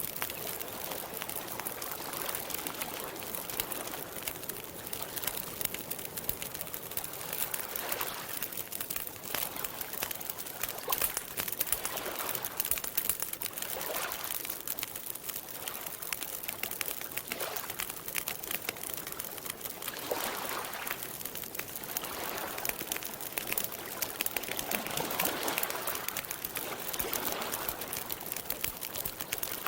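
Campfire crackling with a dense run of small irregular pops, and a softer, rounded sound rising out of it every few seconds.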